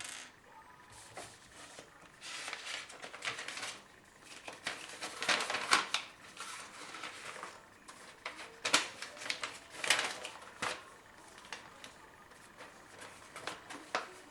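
Hands working on a PC case: irregular clicks, small clattering knocks and rustling of parts being handled, with the sharpest knocks about halfway through and again a second later.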